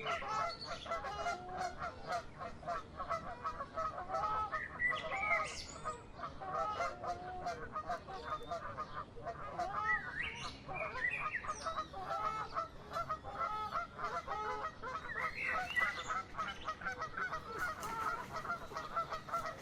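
Continuous chorus of many short, overlapping honk-like bird calls, with occasional higher rising calls standing out above them.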